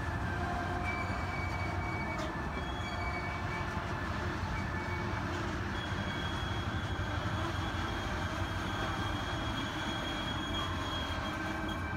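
Canadian Pacific Holiday Train passenger cars rolling past with a steady rumble. The steel wheels give thin high squeals on and off, and one squeal holds through most of the second half.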